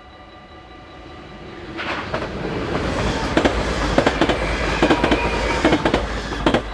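Dutch yellow-and-blue double-deck electric passenger train passing at speed through a level crossing. A rising rush grows into a loud run of wheel clicks over the rail joints, which stops suddenly about six and a half seconds in as the last coach clears. The crossing's warning bell rings steadily underneath.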